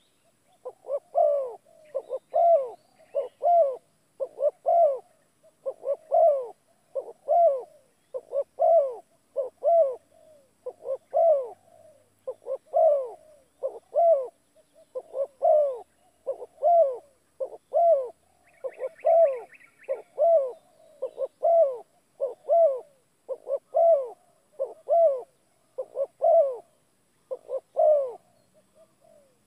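A bird calling over and over, short calls that each rise and fall in pitch, about one and a half a second without a break.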